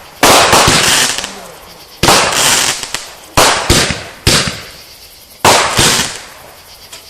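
Consumer fireworks going off: about seven loud bangs at uneven intervals, some in quick pairs, each trailing off in a long echoing decay.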